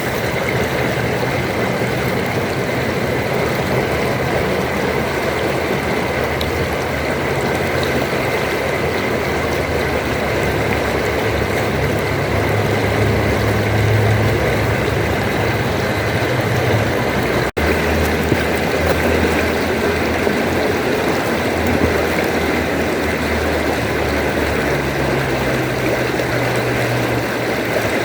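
River water rushing steadily, with a low, wavering rumble underneath. It drops out for an instant about two-thirds of the way through.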